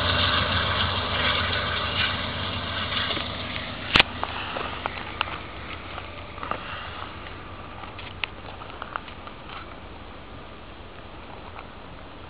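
Diesel train running off into the distance, its engine rumble steadily fading away. A sharp click about four seconds in, then a few lighter clicks.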